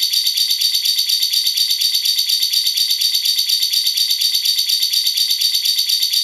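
Cage-bird masteran track: a continuous, high-pitched rattling trill of rapid chattering calls, pulsing evenly about five times a second.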